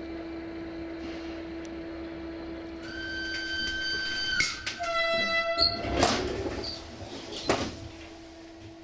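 Train sounds over a steady low hum: a high pitched tone about three seconds in, lasting a second and a half, then a second, lower tone about five seconds in, followed by two sharp knocks.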